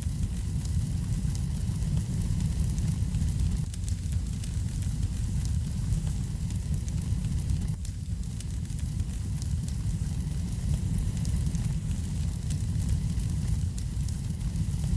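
Wood fire burning in a fireplace, with steady crackling and a continuous low rumble.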